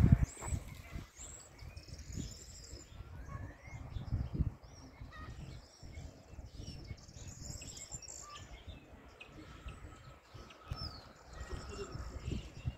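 Small birds chirping, with scattered short high calls and little rising and falling notes, over low irregular thuds and rumble.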